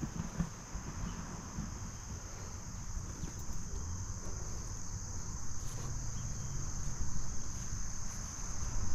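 Crickets chirping as a steady, unbroken high trill, with faint low rumble beneath.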